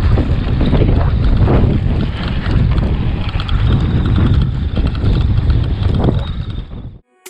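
Wind buffeting the microphone in loud, uneven gusts while riding an e-bike, cutting off suddenly near the end.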